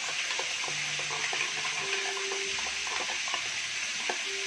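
Steady hiss of chicken frying in hot oil, with light clinks of a metal spoon scraping food out of a small tin can.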